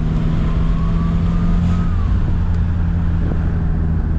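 Volkswagen MK2 Jetta 1.6 turbodiesel engine running under way, heard from inside the cabin. A faint turbo whistle rises, then falls away about two seconds in.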